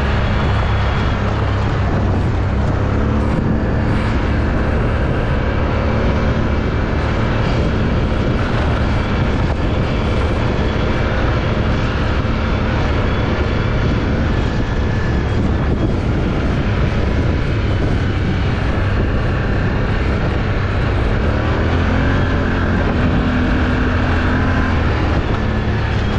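An off-road vehicle's engine runs steadily under way, with a loud low rumble. A little past twenty seconds in, the engine pitch climbs briefly as it revs up, then settles.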